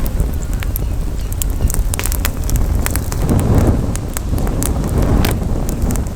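Campfire crackling, with frequent irregular sharp pops over a steady low rumble from wind on the microphone, which swells about three and a half seconds in.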